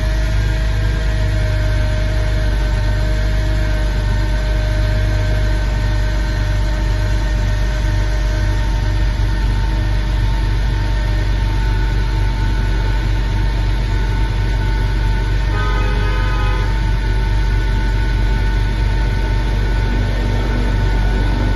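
Porsche 996 Carrera Cabriolet's 3.4-litre water-cooled flat-six idling steadily just after a cold start.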